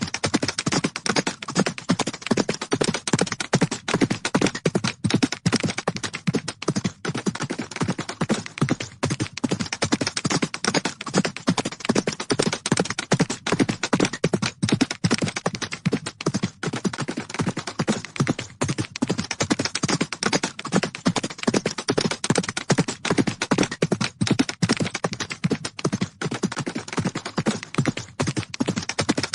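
Hooves of galloping horses striking the ground in a fast, unbroken run of beats.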